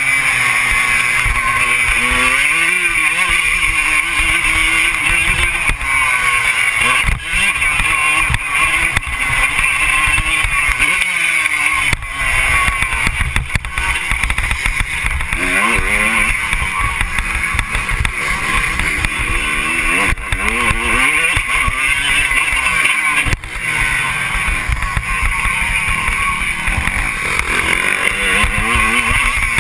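Motocross dirt bike engine revving up and down over and over as it is ridden, its pitch rising and falling every few seconds over a constant rushing noise.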